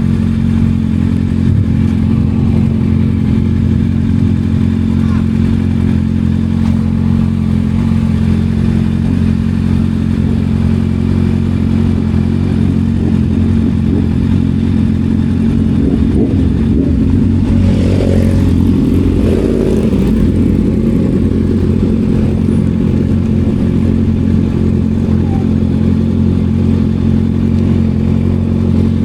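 Kawasaki ZX6R inline-four with an M4 aftermarket exhaust, running at a steady, unchanging engine speed. About seventeen seconds in it grows rougher and louder for a few seconds, then settles back.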